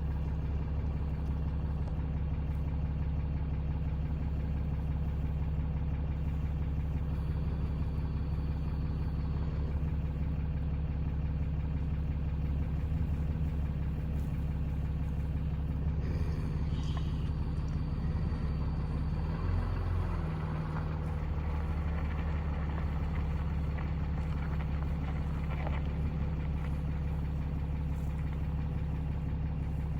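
Steady low hum of a vehicle engine idling, with a brief change in its low rumble just under two-thirds of the way through.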